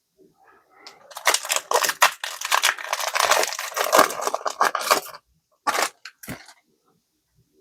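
Foil booster pack wrapper being torn open and crinkled by hand, a few seconds of dense crackling, then two short crinkles.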